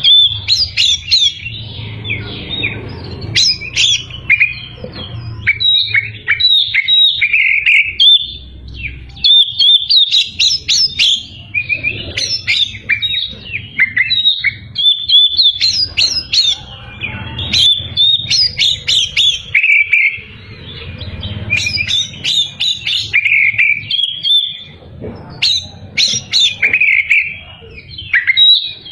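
Oriental magpie-robin singing energetically: a long, varied song of whistles, trills and chattering notes with only brief pauses.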